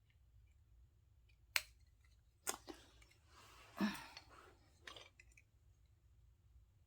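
A few sharp metal clicks, with a short scraping rasp about halfway through, as hand tools pry and work at a brass-and-steel doorknob being taken apart.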